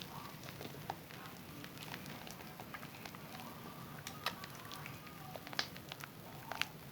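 Hands lathering a wet bar of Zest soap: steady wet squishing with many small crackling clicks of bubbles, and a few sharper clicks.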